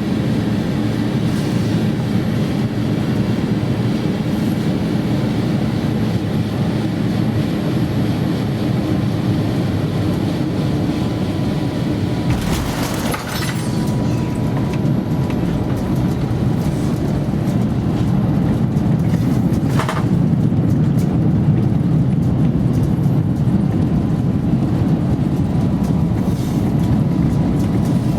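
Airbus A350-900 cabin noise on the approach to landing: the steady low rumble of its Rolls-Royce Trent XWB engines and the airflow, with a faint steady tone. A short thump comes about halfway through, and the noise grows a little louder in the last third.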